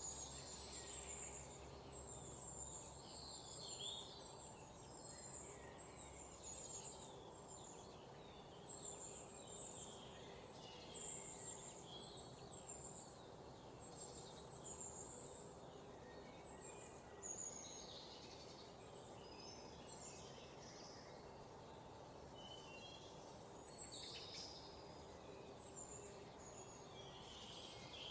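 Several small songbirds chirping and twittering: many short, high calls that overlap one another. The calls are faint, over a steady low background noise.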